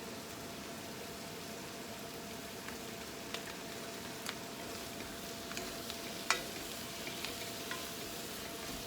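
Food frying and sizzling in a pan, a steady hiss with scattered sharp clicks of a utensil against the pan; the loudest click comes a little after six seconds in.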